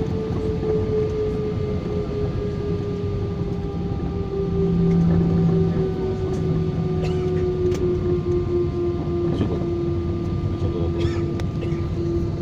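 Airliner engine noise heard inside the cabin: a steady low rumble with a whine that slowly falls in pitch, swelling briefly about five seconds in, with a few light clicks and knocks later on.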